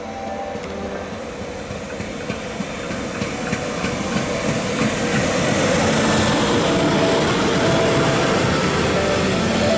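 Class 111 electric locomotive hauling n-Wagen coaches rolling past on the station track, its running noise growing louder as the train comes close and the coaches go by.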